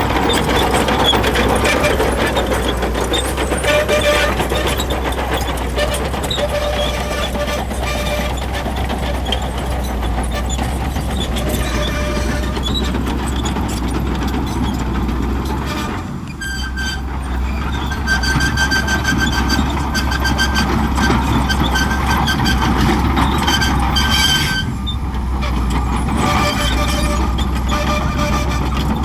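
Crawler bulldozer at work: its diesel engine runs with a steady low drone while high-pitched metallic squeals from the steel tracks come and go. The sound dips briefly twice, about halfway through and again later.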